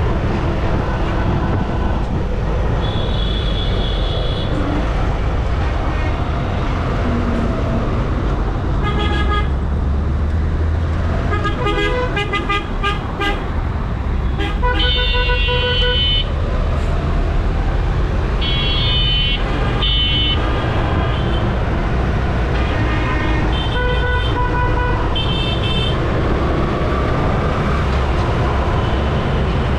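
Road traffic with a steady low rumble and vehicle horns honking again and again in short blasts, several horns of different pitch.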